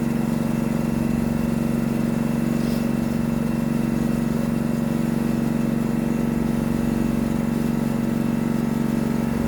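Air compressor and ventilation fan running together, a loud steady mechanical hum with a fast, even pulse underneath.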